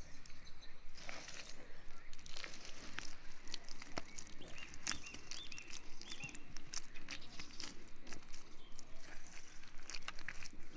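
Rapid, irregular crunching and clicking, with a few short high chirps near the middle, typical of animals feeding.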